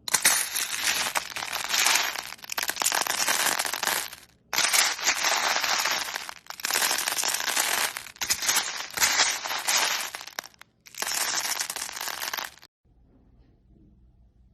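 Dense crackling and crunching, in five stretches broken by brief gaps, that cuts off suddenly about thirteen seconds in.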